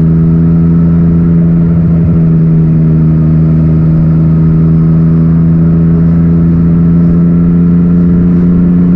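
Yamaha MT-09's three-cylinder engine, breathing through an Akrapovic titanium exhaust, running loud and steady at constant revs while riding.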